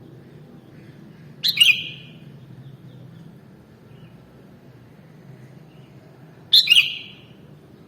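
Sooty-headed bulbul giving two short, sharp calls about five seconds apart, over a steady low hum.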